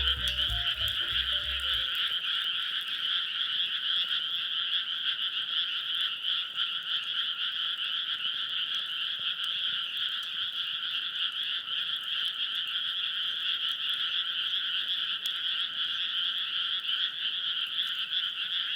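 Frog chorus: many frogs calling together in a steady, unbroken din.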